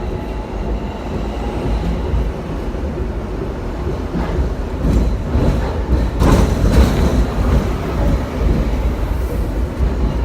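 Hong Kong double-decker electric tram running along its street tracks, heard from on board: a steady low rumble of wheels and body, with a louder patch of rattling clatter about six seconds in.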